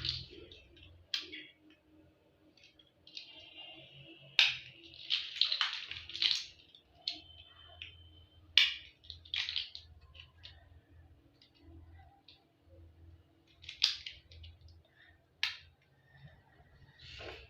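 Toy building blocks being handled and fitted together: irregular clicks and short rustles a second or two apart.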